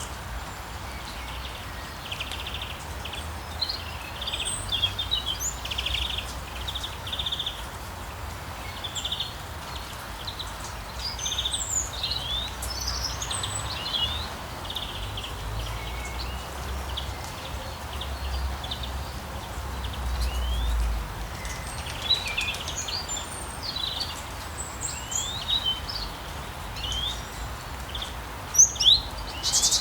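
Songbirds chirping and trilling over a steady hiss of rain, with a low rumble underneath; a few louder chirps come near the end.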